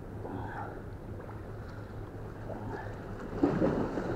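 Steady low wind rumble on the microphone, with soft rustling as hands pick apart a tangled fishing line, and a louder rustle of handling about three and a half seconds in.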